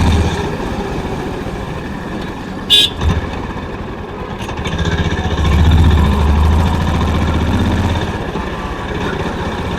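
Honda CB350's air-cooled single-cylinder engine and exhaust running while riding, growing louder from about five to eight seconds in as it pulls harder. A brief sharp high-pitched sound cuts in about three seconds in, followed by a low knock.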